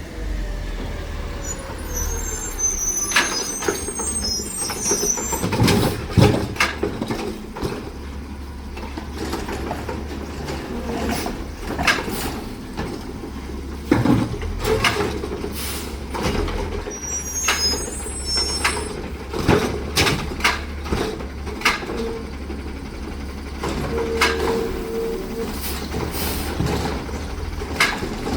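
Heil Rapid Rail side-loader garbage truck on a Battle LET2 chassis working a trash route: the diesel engine runs steadily while air brakes hiss. High squeals come twice, and repeated knocks and bangs come throughout.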